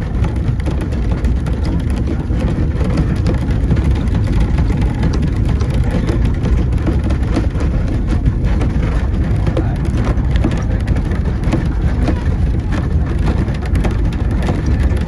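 2ft gauge narrow-gauge train running along the line, heard from on board: a steady low rumble with irregular clicking and clatter from the wheels on the rails.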